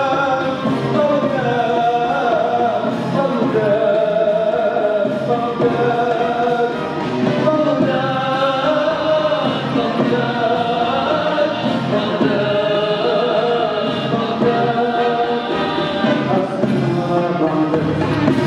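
Symphony orchestra playing with a choir singing, steady and full throughout.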